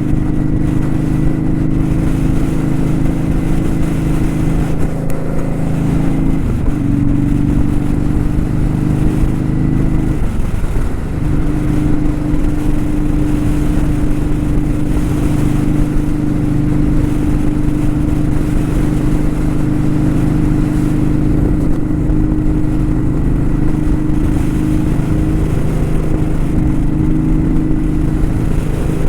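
Kawasaki Vulcan 900 Custom's V-twin engine running at a steady note under way, the revs dropping briefly and settling again about six and ten seconds in, with some wavering in pitch near the end.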